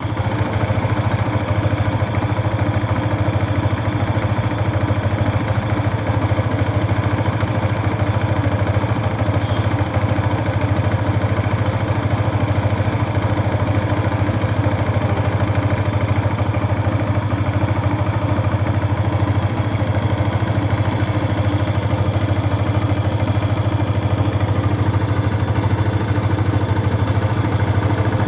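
Yamaha FZ V2's single-cylinder engine idling steadily without revving. The owner presents this running sound as an engine noise problem.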